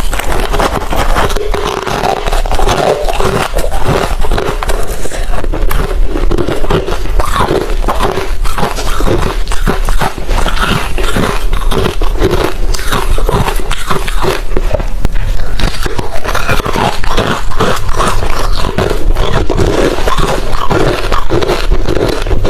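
Close-miked chewing of hard refrozen crushed ice: a rapid, continuous run of loud, irregular crunches.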